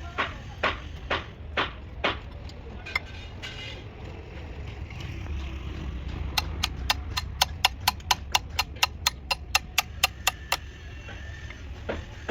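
Hammer tapping in runs of sharp, evenly spaced strikes, a fast run of about four a second through the middle, over a steady low hum.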